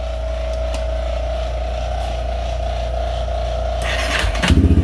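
2000 Yamaha Warrior's 350 cc single-cylinder four-stroke engine being cold-started on choke. It cranks with a steady whir, and about four and a half seconds in it catches with a clatter and runs, loud and evenly pulsing.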